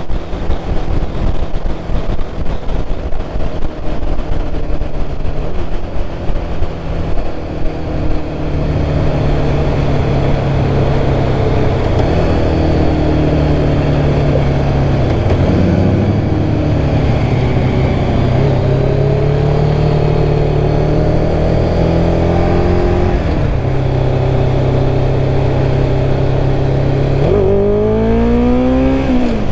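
1996 Kawasaki ZX-11 D4's inline-four engine running under way, with wind buffeting the microphone for the first several seconds. The engine then settles into a steady drone that sags and rises gently with the throttle, and near the end it revs up steeply before dropping back.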